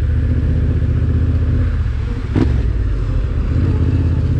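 Adventure motorcycle engine running under way on a dirt trail, heard from on the bike. About halfway through it briefly dips, then a single sharp knock sounds.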